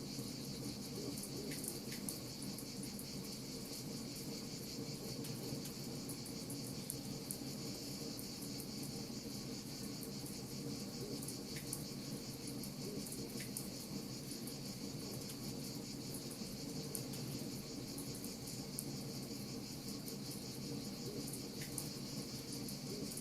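Crackling wood fire: scattered small snaps and pops over a steady, even hiss, with a continuous high-pitched chirring running through it.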